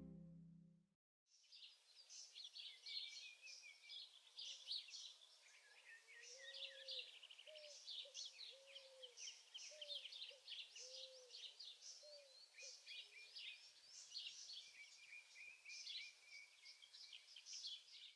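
Faint birdsong: several small birds chirping and twittering throughout, with a lower, rounded call repeated about once a second from about six to thirteen seconds in. Background music fades out in the first second.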